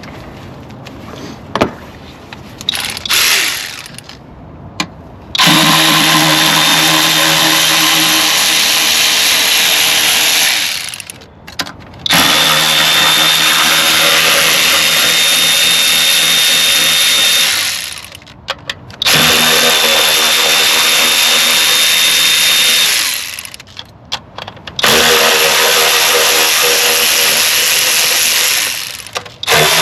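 Handheld power tool with an 8 mm socket on an extension, spinning out the long intake-plenum bolts on a 3.6 L V6. It runs steadily four times for several seconds each, with short pauses between bolts and a few handling clicks before the first run.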